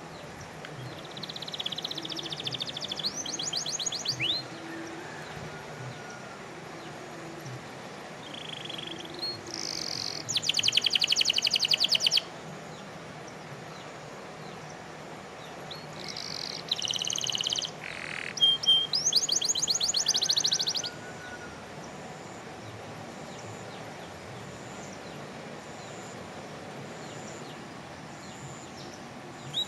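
Domestic canary singing in three song bouts of a few seconds each, with pauses between; each bout runs through varied high notes into fast rolling trills.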